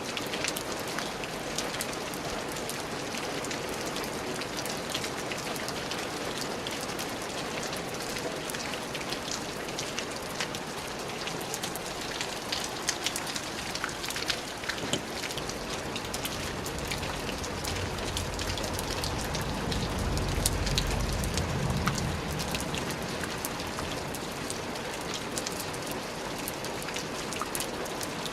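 Steady rain falling on a surface: an even hiss dotted with the ticks of single drops. A low rumble swells and fades a little past the middle.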